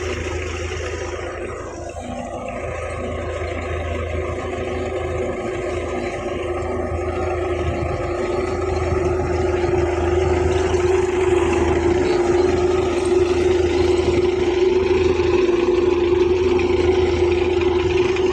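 Belarus 510 tractor's diesel engine running steadily while pulling a planter. Its level dips slightly about two seconds in, then gradually builds.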